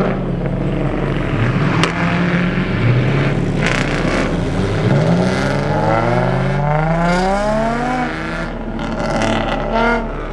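Car engine running, then revving up with its pitch rising steadily for about three seconds as it accelerates.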